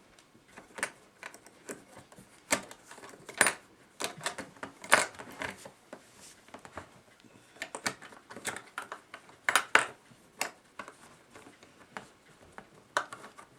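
Irregular light metal clinks and clicks as a C-clamp is worked off a wound clock mainspring and the brass movement is handled, some taps louder than others.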